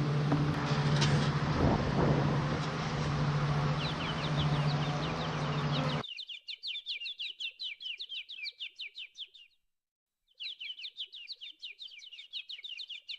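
A steady low hum with outdoor handling noise, which cuts off abruptly about six seconds in. A bird's rapid, high chirping follows, repeated many times a second, with one short break.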